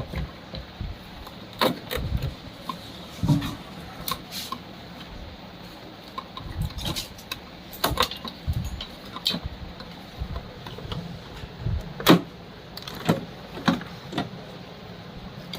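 Irregular metallic clinks and knocks of tools and parts being handled while a blower machine is taken apart, over a steady low background noise.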